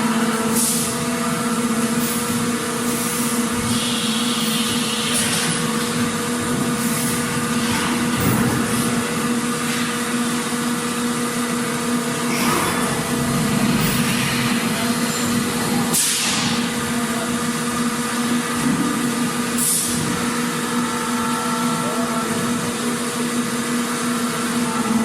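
Factory machinery running: a steady mechanical hum with several held tones, broken now and then by short hisses.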